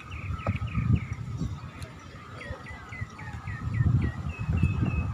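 A bird calling: a run of short, downward-sliding chirps at about four a second, then a few level whistled notes near the end, over irregular low rumbling noise.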